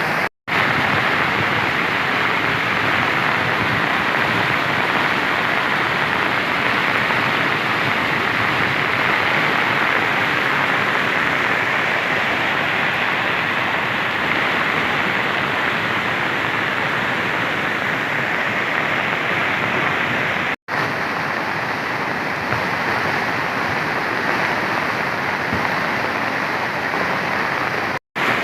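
Steady, loud rush of water from heavy rain and runoff. It is broken by brief silent cuts: just after the start, at about 21 seconds, and just before the end.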